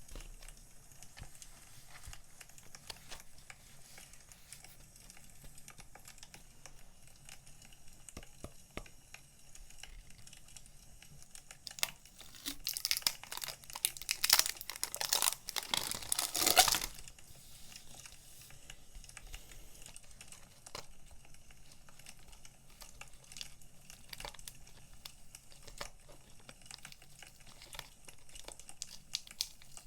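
Paper and plastic packaging of stationery being handled, with one loud run of crinkling and tearing lasting about five seconds midway. Faint scattered crackles of a burning wood fire underneath.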